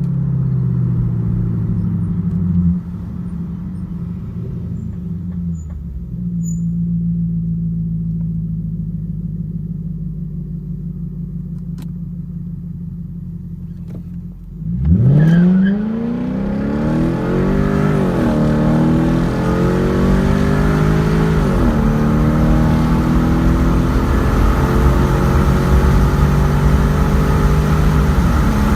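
2007 Infiniti M45S 4.5-litre V8 exhaust. It first slows, pitch falling, and runs quietly and steadily. About halfway through it accelerates hard with a sudden jump in loudness, the pitch climbing through two upshifts, then holds steady and loud.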